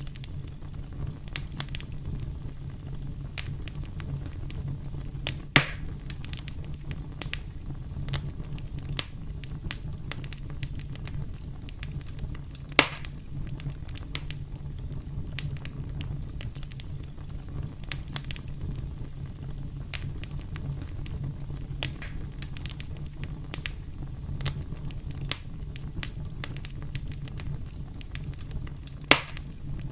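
Campfire crackling: a steady low rumble of burning wood with frequent small snaps and pops, three of them louder, about five seconds in, about thirteen seconds in and near the end.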